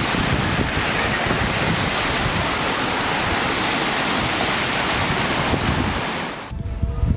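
A loud, steady rushing noise that cuts off abruptly about six and a half seconds in.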